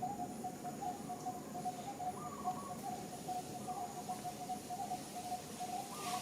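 Animal calls outdoors: a continuous, rapid run of short chirps at one pitch, with a few fainter, slightly higher calls now and then.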